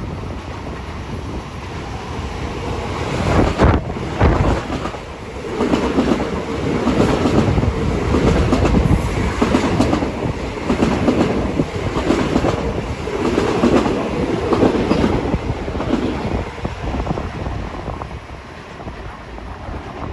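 A Long Island Rail Road train passing close by, its wheels clacking rhythmically over the rail joints. It builds up about three seconds in and fades away near the end.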